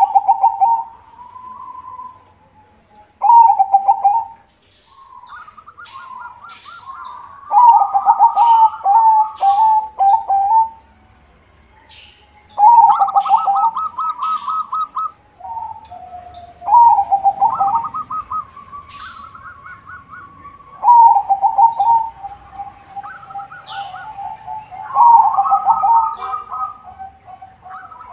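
Zebra dove (perkutut) cooing: repeated phrases of quick staccato, rippling coos, each lasting a second or two. The phrases come in bouts, with short pauses between them.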